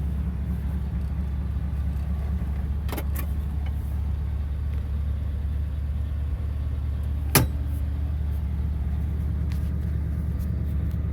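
1951 Ford Custom's engine idling steadily after a cold start, with a single sharp click about seven seconds in.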